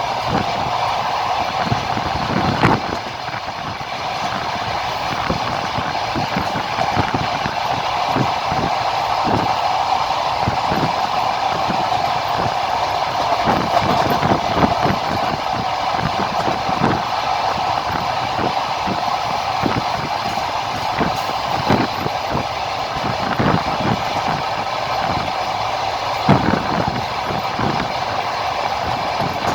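Moving train heard from a carriage window: a steady rolling rumble of wheels on rails with an irregular run of clacks and knocks as the wheels cross rail joints, the sharpest about two and a half seconds in and near the end.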